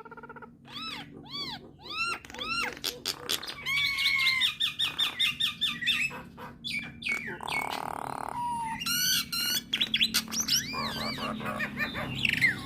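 Nias hill myna singing a varied run of arched whistles and quick clicking notes, with one harsh rasping note a little past the middle.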